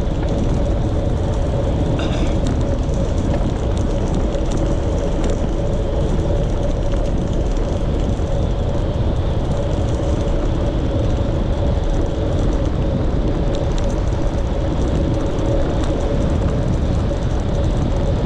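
Steady rushing wind and road noise while riding a touring bicycle along the road, with a constant hum that holds one pitch.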